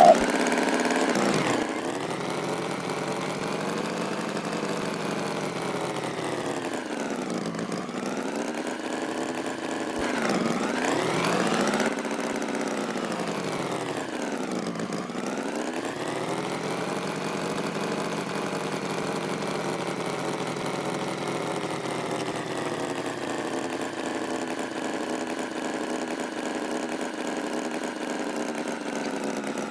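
Tractor engine running steadily, its pitch dipping and climbing back three times, a little louder for a couple of seconds about ten seconds in.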